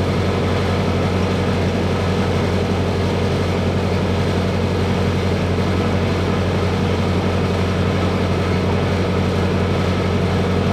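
Sightseeing boat's engine running steadily, a constant low drone heard from inside the passenger cabin.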